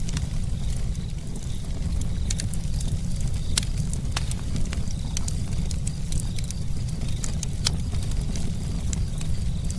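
Campfire crackling: irregular sharp snaps and pops, a few louder ones, over a steady low rumble of the burning fire.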